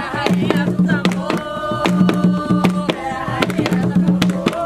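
Jongo music: voices singing together over hand drums struck in a steady rhythm.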